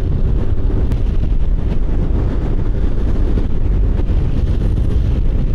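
Wind rushing and buffeting over the microphone of a moving 125 cc Kymco Agility City motor scooter, a steady loud rumble with the scooter's engine running underneath.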